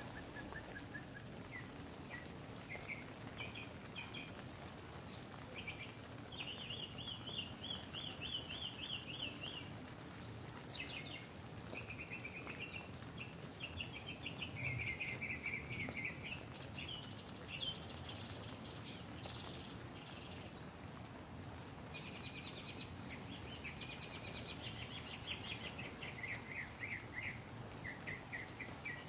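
Several birds singing outside, with repeated trills and chirps coming and going, over a steady soft hiss of light rain on the tent.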